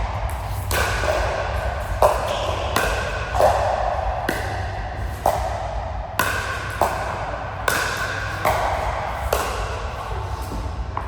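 A rally of sharp ball strikes, about one a second, each with a short ringing ping and echo.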